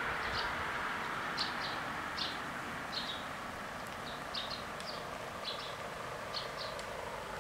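Noise of a Siemens Desiro train fading as it moves away from the crossing, with a small bird chirping in short high notes at uneven intervals.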